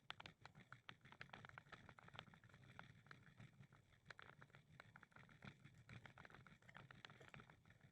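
Faint walking footsteps on a path, many light irregular taps.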